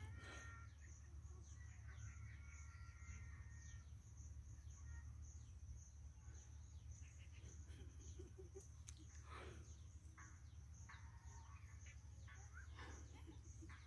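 Faint open-field ambience: scattered short bird chirps over a low steady rumble and a thin high insect-like hiss, with two slightly stronger brief sounds about nine and thirteen seconds in.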